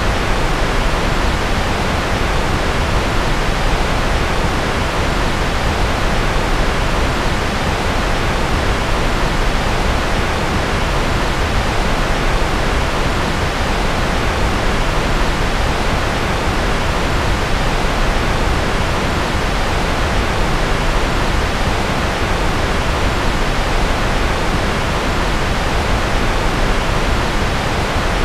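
Steady generated noise of the kind sold as white noise: an even, unchanging hiss with no events, its highest frequencies softer than the lows and mids.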